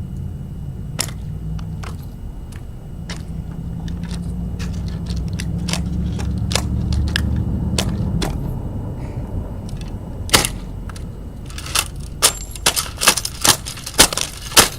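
Sharp cracks and bangs of a toy dollhouse being smashed apart: a few scattered hits, then a quick run of about half a dozen loud ones near the end. A low steady rumble runs underneath.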